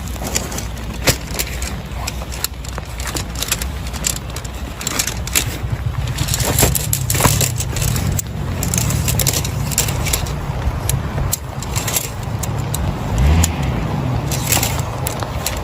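Heavy rain falling steadily, with many sharp ticks of drops striking nearby surfaces and a continuous low rumble underneath.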